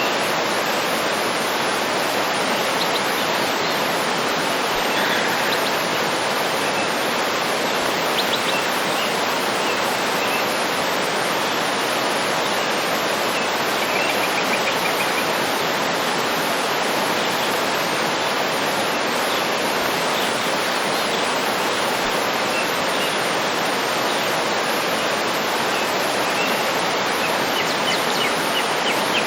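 Waterfall rushing steadily, with faint bird chirps here and there over it.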